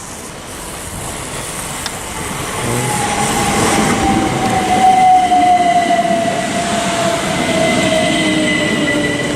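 Southeastern Class 375 Electrostar electric multiple unit pulling into the station, growing louder as it comes in. A whine falls slowly in pitch as the train slows, and a thin high squeal joins in toward the end.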